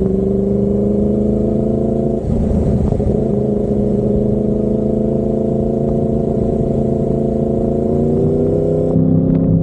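Yamaha MT-10's crossplane inline-four running through an SC Project carbon-titanium exhaust, the engine note rising slowly and steadily as the bike pulls along, with a brief dip about two seconds in.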